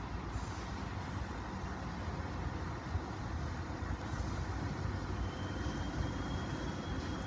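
Tyne and Wear Metro train of two coupled Metrocars rumbling steadily on the track, with a faint high whine joining about five seconds in.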